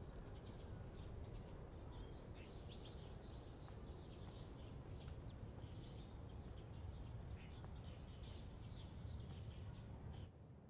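Faint outdoor ambience: small birds chirping on and off over a low steady rumble, cutting to a quieter room tone near the end.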